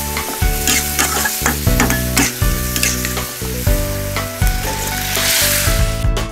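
Chicken feet sizzling in hot oil in a wok, stirred with a metal spatula that clicks and scrapes against the pan, over background music. The sizzling stops suddenly near the end and the music plays on.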